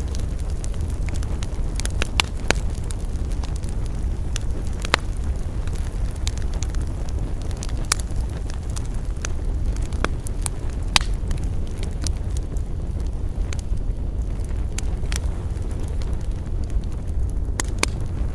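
Wood fire crackling, with irregular sharp pops and snaps over a steady low rumble; a few louder pops stand out, about two, five and eleven seconds in.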